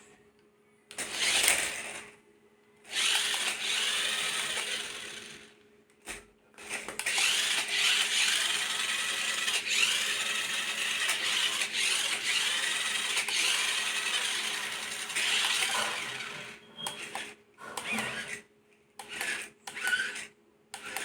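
Small electric motor of a toy remote-control car whirring in bursts: a short burst, a longer one, then a run of about nine seconds with a wavering pitch. Short knocks and rattles follow near the end.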